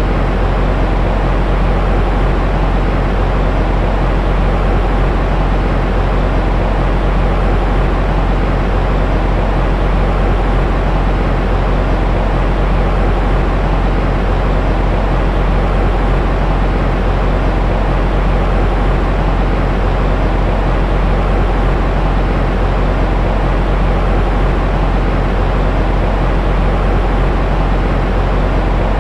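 Continuous sleep-aid noise for soothing a baby: a steady, deep hiss, heaviest in the bass, with a faint even hum running through it and no change at all.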